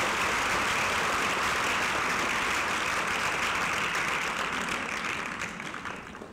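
Theater audience applauding, steady at first, then dying away over the last second or so.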